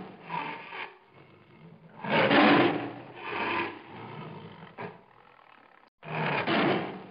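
Duck quacking in loud, raspy bursts with short pauses between.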